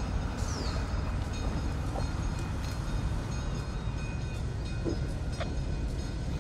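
Train on the rails: a steady low rumble with a few short clicks and a brief high squeal near the start.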